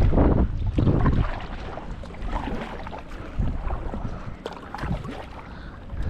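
Kayak paddle strokes splashing in the water, with wind buffeting the microphone, loudest in the first second.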